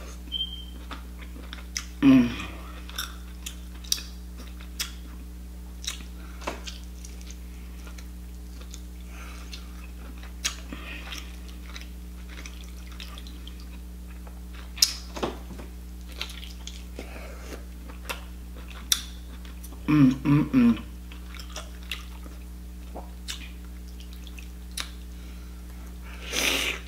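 Close-miked chewing of buttery lobster meat: wet smacking and clicking mouth sounds, with a few louder mouth noises scattered through, over a steady low electrical hum.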